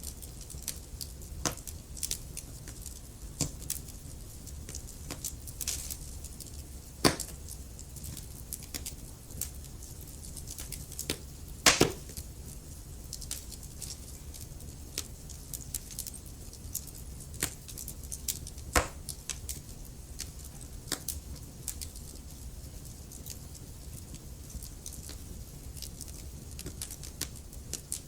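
Wood burning in a fireplace, crackling: a constant scatter of small snaps over a low steady rumble, with a few louder pops about seven, twelve and nineteen seconds in, the loudest a quick double pop around twelve seconds.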